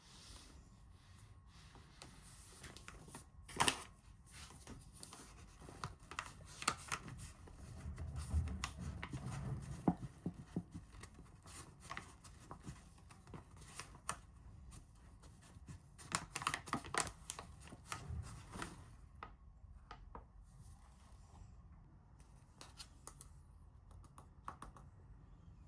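Scattered light clicks, taps and rustling of small objects being handled, with a few sharper knocks.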